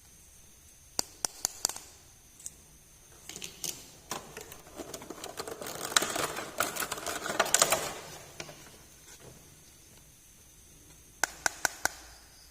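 Small plastic miniature toys and their packaging being handled: a few sharp clicks and taps about a second in and again near the end, with a denser stretch of rustling and clicking in the middle.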